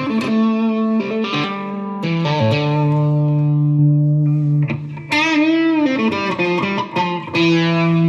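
Electric Stratocaster-style guitar played through a Fender Mustang GTX100 modelling amp: long sustained notes with string bends partway through, about five to six seconds in.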